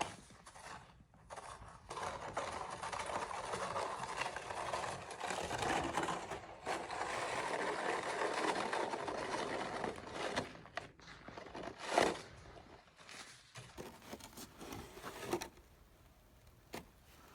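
Snow shovel pushed along a driveway through light, fluffy snow, the blade scraping in long pushes, with a sharp knock about twelve seconds in and a few shorter scrapes after it.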